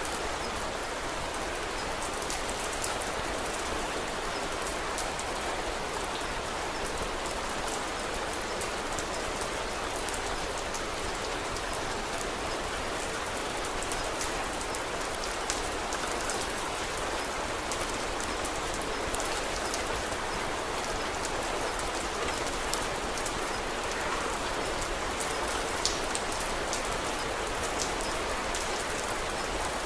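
Steady rain, with small sharp crackles from a wood fire scattered through it.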